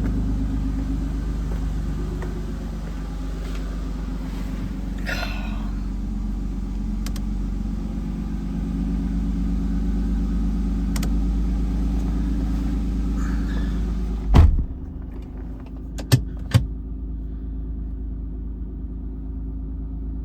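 Toyota Supra's 2JZ-GTE twin-turbo straight-six idling steadily after a cold start. About two-thirds of the way in there is a loud thump, after which the engine sound goes duller, followed by two sharp clicks.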